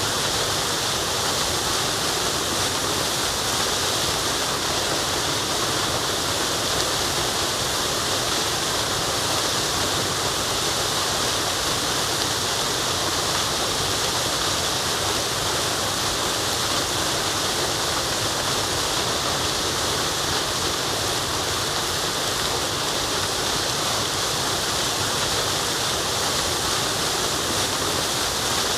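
Waterfall rushing, a steady, even hiss of falling water that does not change at all.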